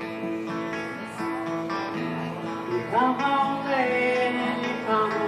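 Acoustic guitar playing a song intro. A louder, gliding melody line joins about three seconds in.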